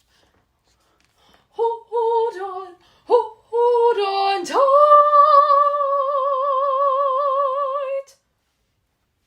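A solo female soprano voice singing without accompaniment: a few short phrases after a brief silence, then a scoop up into a long held high note with a steady vibrato that stops cleanly near the end.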